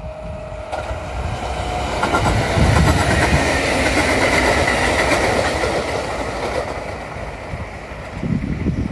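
Kintetsu electric commuter train passing close by, its wheels clattering rhythmically over the rail joints. It grows to its loudest a few seconds in and then eases off as the train moves away, with wind buffeting the microphone near the end.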